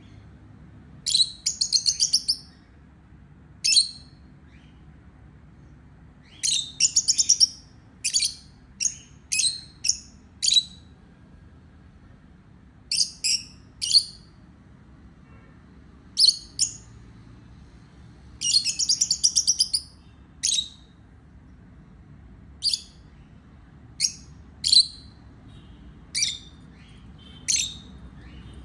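Baby parrot calling in short bursts of rapid, high-pitched chirps every one to three seconds, some drawn out into quick runs lasting about a second.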